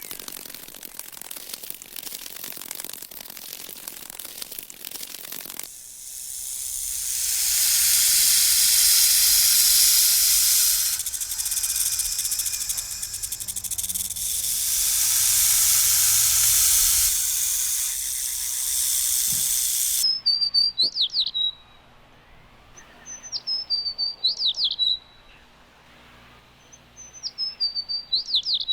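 Animal sounds in three parts: a faint rapid clicking, then a loud steady hiss lasting about fourteen seconds, then a bird giving quick bursts of high chirping notes, repeated several times.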